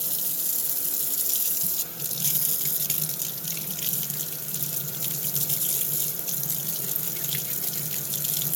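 Water running steadily from a tap into a sink, with a brief dip in level about two seconds in.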